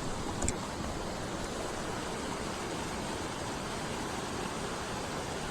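Steady rush of a mountain stream running high after heavy rain, with a brief click about half a second in.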